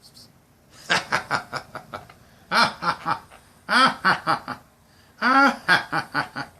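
Laughter in four short bouts, each a quick run of ha-ha pulses, the middle ones falling in pitch.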